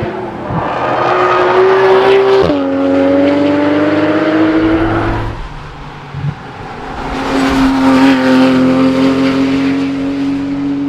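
Porsche 911 GT3 RS flat-six revving hard under acceleration. The pitch climbs, drops sharply at an upshift about two and a half seconds in, then climbs again and fades. A second high-revving run builds from about seven seconds in.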